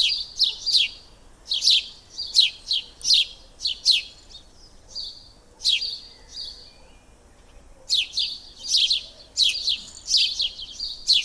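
Small birds chirping: a quick series of short, sharp, high chirps, each sliding down in pitch, coming in clusters with a pause of about two seconds around the middle.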